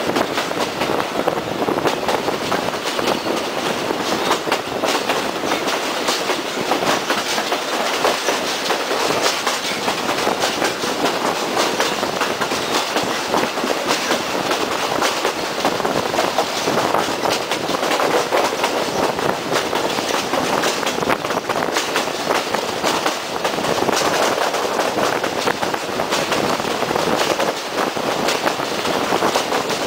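Locomotive-hauled express passenger train running on jointed track, heard from aboard: a continuous rumble and rattle of the carriage with repeated clicks of the wheels over the rail joints.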